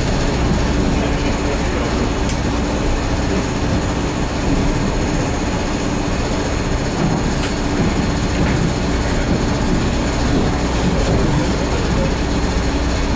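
Inside a moving Metra commuter coach: steady rumble of wheels on rail with a constant low hum, and a few faint clicks from the track.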